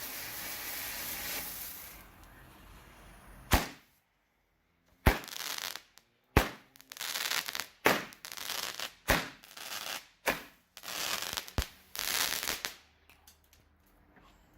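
King Bird El Tigre seven-shot hybrid firework cake going off: a steady hiss for about two seconds, then seven sharp shots roughly a second and a half apart, each followed by a spell of crackling, with a few last small crackles near the end.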